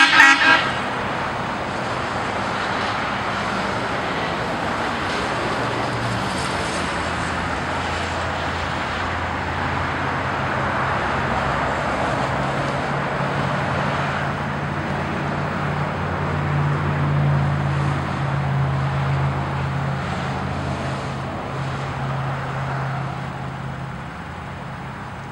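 A car horn sounding briefly at the very start, then steady road traffic noise: tyre and road rumble under a low engine drone that rises and falls in pitch.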